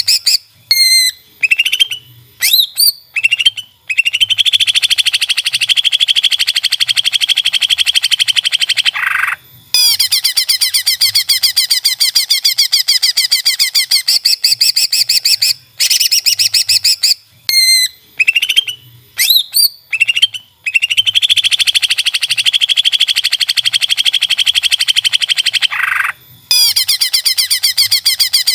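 Cucak ijo (greater green leafbird) singing: long runs of rapid, closely repeated high chattering notes, broken by a few short sweeping whistles. The same song passage comes round again about sixteen seconds in, as in a looped recording.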